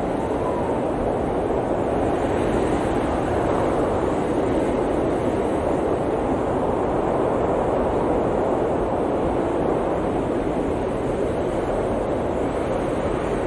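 Blizzard wind blowing steadily, a dense rushing noise that swells gently and eases off a little near the end.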